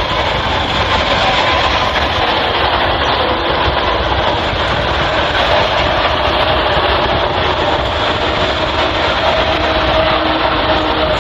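Heavy military truck running, a steady loud rumble of engine and road noise with a faint held whine over it.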